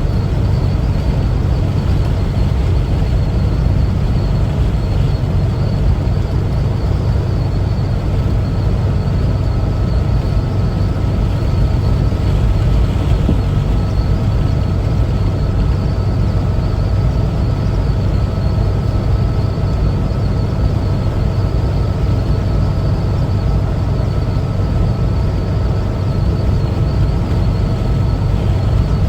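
1974 Volkswagen Westfalia camper's air-cooled Type 4 flat-four engine running steadily while driving, with road noise. A faint steady whine joins about nine seconds in.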